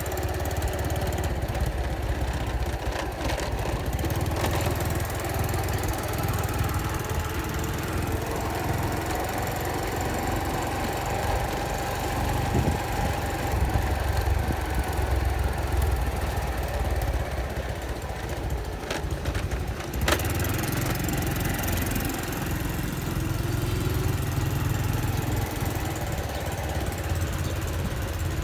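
An engine running steadily, a continuous low rumble with little change, with a couple of sharp clicks about two-thirds of the way through.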